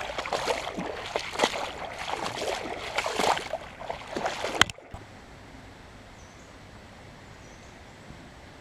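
Shallow creek water splashing and sloshing in irregular strokes for about four and a half seconds, ending abruptly with a sharp click; after that only a faint steady hiss.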